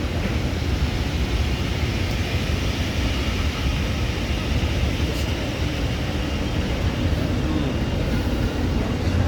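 A railway train running, a steady low rumble without any distinct beat.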